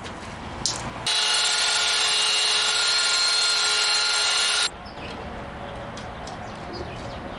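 A power tool motor running steadily with a high whine for about three and a half seconds, switching on and off abruptly.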